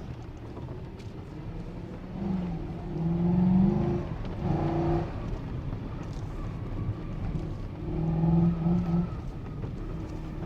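Four-wheel-drive vehicle engine revving up twice as it pushes through deep fresh snow, over a steady rumble of the drive.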